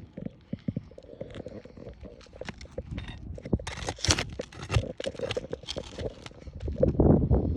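Asphalt roof shingles being worked apart by hand: irregular crackling, scraping and ticking as the sealed layers separate, with a sharper tearing rip about four seconds in and low rustling handling noise near the end.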